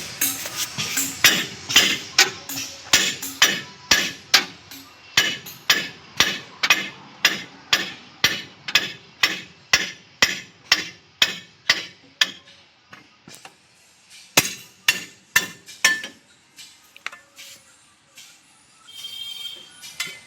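Repeated hammer blows, about two a second for roughly twelve seconds, then a few slower strikes.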